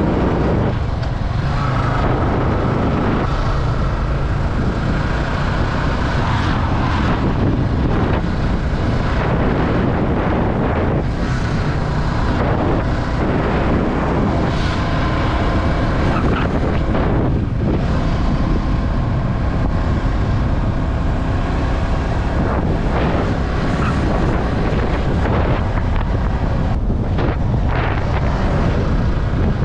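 Yamaha R15 V3's single-cylinder engine running steadily while riding, with wind rushing over the microphone.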